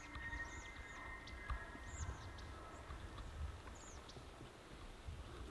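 Distant bull elk bugle, a high drawn-out whistle trailing off within the first couple of seconds, with a few faint high bird chirps over low wind rumble.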